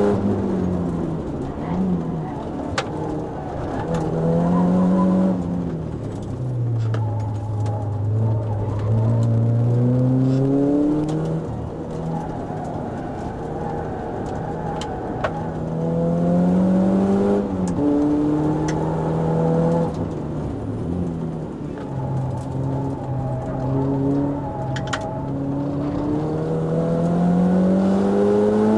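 Renault Clio RS's 2.0-litre four-cylinder engine heard from inside the cabin at track speed. Its note climbs through the revs and drops back at each gear change, settles to a lower, steady note for a few seconds, then climbs again.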